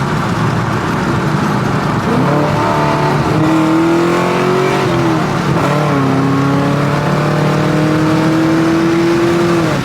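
Car engine pulling hard under full acceleration. The engine note climbs, drops at a gear change about five seconds in, then climbs steadily again through the next gear.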